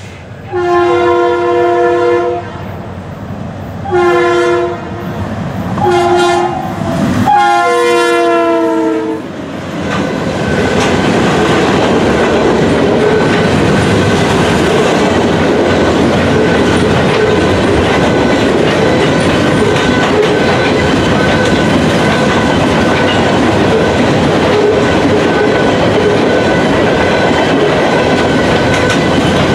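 Norfolk Southern freight locomotive's horn sounds four blasts: a long one, two shorter ones, then a long one. From about ten seconds in comes the steady, loud rumble and clickety-clack of a long train of gondola cars rolling past on the rails.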